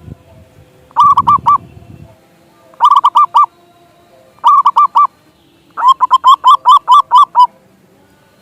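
Zebra dove (perkutut) singing its staccato cooing song: four quick phrases of short notes, the first three of about four notes each, the last and longest about ten notes.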